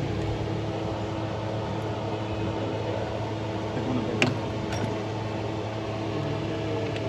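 Toyota Corolla XLi engine idling steadily just after its ignition timing was set, with a single sharp click about four seconds in.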